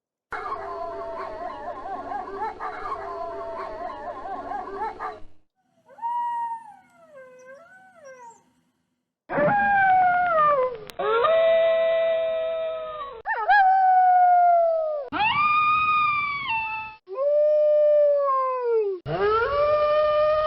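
Wolves howling: first several voices overlapping in a chorus, then a fainter stretch of wavering howls, then a run of single long howls, each rising, holding and falling away, with abrupt starts and stops between them.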